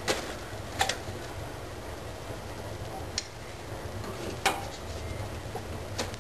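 Firewood in a fireplace giving a handful of sharp cracks and clicks, the loudest about four and a half seconds in, over a low steady rumble.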